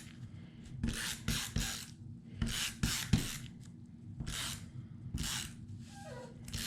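Paper and cardstock rustling and sliding, in a series of short swishes as the sheets are handled and laid out.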